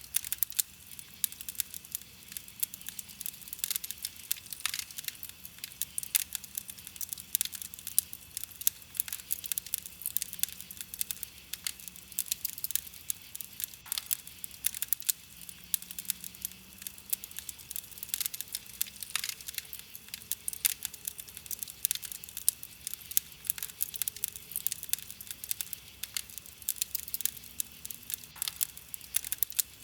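Wood campfire crackling: a dense, irregular run of small sharp pops and snaps over a soft hiss of burning wood, with now and then a louder pop.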